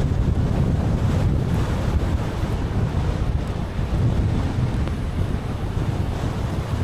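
Steady low rumble and hiss of a car driving on wet roads in the rain, with tyre and wind noise on the microphone.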